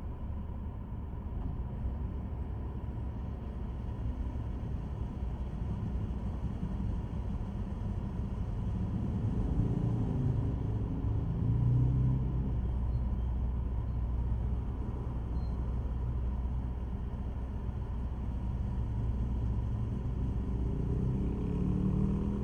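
A steady low rumble with a faint steady hum. It swells and wavers about ten seconds in and again near the end.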